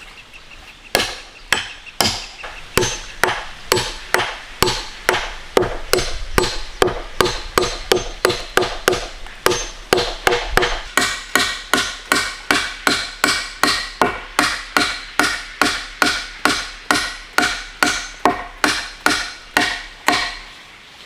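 A hand tool striking over and over at an even pace, about two blows a second, each blow with a short ringing note.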